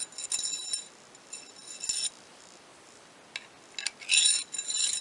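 Metal parts of a paintless-dent-repair slide-hammer puller clinking and ringing as a coil spring is fitted onto its shaft. There are several spells of high metallic jingling, the last and loudest near the end, with a few sharp clicks just before it.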